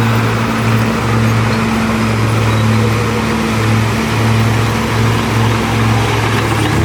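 Heavy diesel engine of earth-moving machinery running steadily, a deep constant drone with noise of the machine working.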